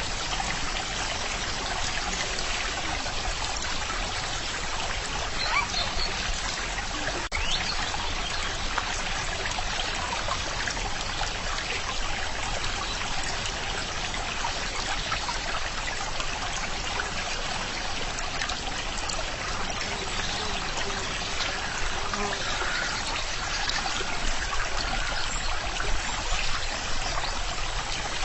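Stream water trickling and flowing steadily over stones, an even, unbroken splashing rush.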